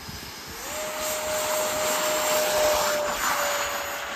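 Twin 70mm electric ducted fans of a Freewing B-2 Spirit RC jet running at high throttle just after takeoff: a steady high whine over a rush of air. The pitch steps up about half a second in, and the sound swells to its loudest near the middle, then eases off.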